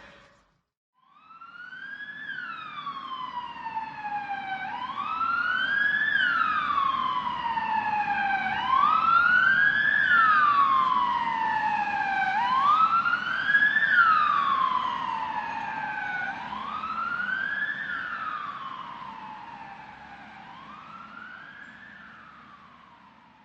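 Emergency vehicle siren on a slow wail, about six cycles, each rising quickly and falling slowly, over a low rumble. It starts about a second in, grows louder to the middle and fades away near the end.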